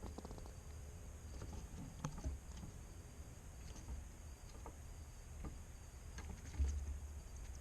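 Faint, irregular clicks and taps of small animals feeding close to the microphone, over a low steady rumble, with a soft thump near the end.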